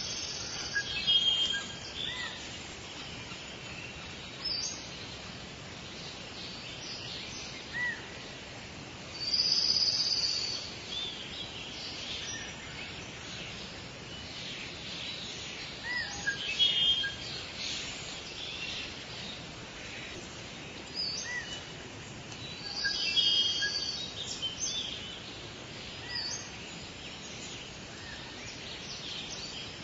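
Forest birds singing and calling, with short high trills and chirps coming every few seconds over a steady background hiss.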